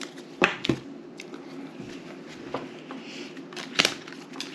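Playing cards being laid and flicked down on a table: a few sharp clicks, two close together near the start and one near the end, over a steady low room hum.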